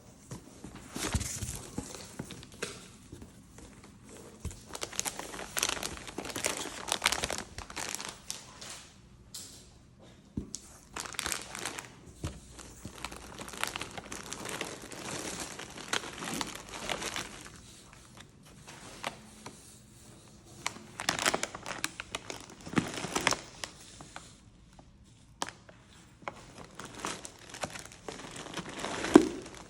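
Paper and plastic packaging crinkling and tearing in irregular handfuls, with a few short pauses, as a gift parcel is unwrapped.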